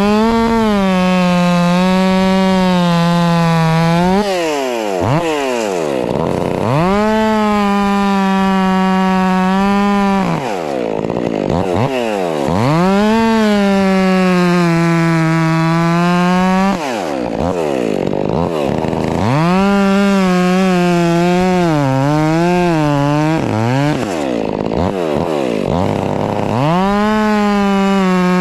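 Stihl MS 400 C-M two-stroke chainsaw cutting firewood rounds: the engine revs up and holds at full throttle under load for about four seconds, drops back briefly, and does it again, about five cuts in all. During the fourth cut the pitch wavers up and down.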